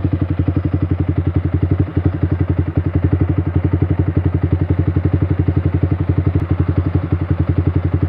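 Yamaha R15 V3's single-cylinder four-stroke engine idling steadily through a Proliner Pro SV full-system aftermarket exhaust, an even, deep pulse of about ten beats a second.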